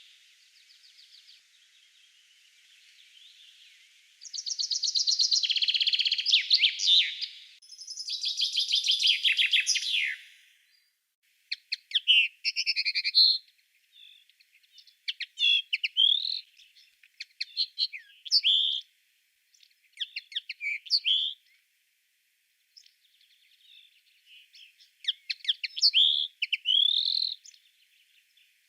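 Songbirds singing in a spring woodland chorus: two long, rapid trills, then a run of short, varied, high-pitched phrases separated by brief pauses.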